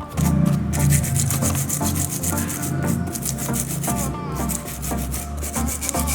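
Sandpaper rubbed over a 1:24 scale model car body in rapid back-and-forth strokes.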